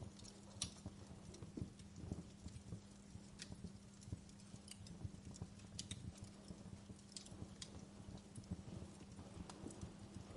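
Wood fire in a fireplace crackling: irregular sharp snaps and pops of burning logs, a few louder than the rest, over a low steady hum and rumble.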